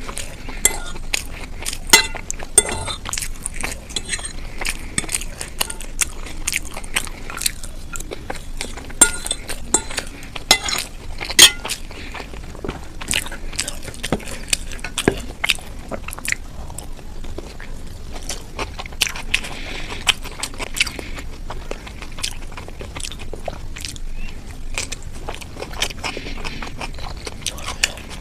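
Close-miked eating: chewing and crunching with many irregular sharp clicks, and now and then a clink of a utensil or dish.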